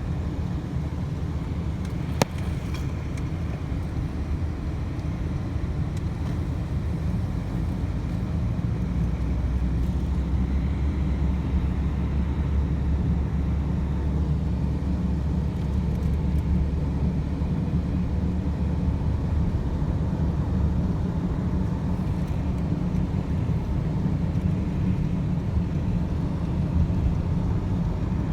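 A car driving along the road: a steady low rumble of engine and tyres, which swells in the bass for a stretch in the middle. There is a single sharp click about two seconds in.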